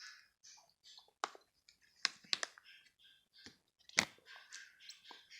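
Handling of a small plastic toy watch and its wrapping: several sharp clicks, with soft rustling in between.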